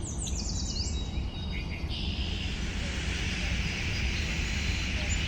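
Outdoor nature ambience: birds give several quick, downward-sweeping chirps in the first second, over a steady low rumble. A steady hiss joins about two seconds in and carries on.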